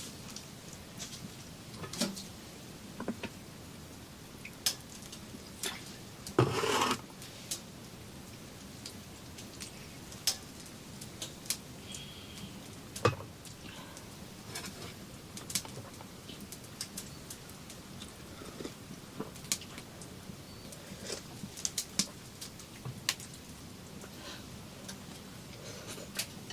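Scattered light clicks and knocks of objects being handled, irregular and a second or more apart, with a short rustling scrape about six and a half seconds in.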